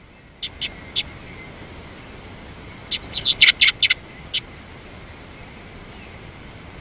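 Bird chirping: three short, sharp chirps about half a second apart, then a quick run of about eight chirps about three seconds in, over a steady faint hiss.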